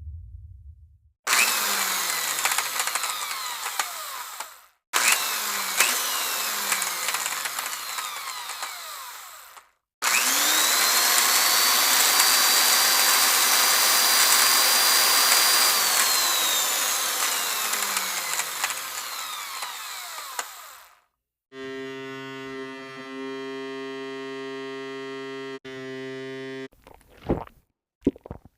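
A run of separate sound effects. First come two harsh bursts of noise a few seconds each, laced with falling sweeps. Then a longer burst where a high whine rises, holds steady for several seconds and falls away, like a power tool such as a drill spinning up and winding down. Then comes a steady buzzing electronic tone for about five seconds, and a few short pops near the end.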